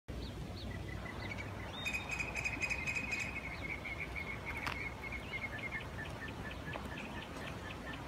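A bird calling: a run of short, high chirps about four a second, with a faster, louder trill about two seconds in, over a low outdoor rumble.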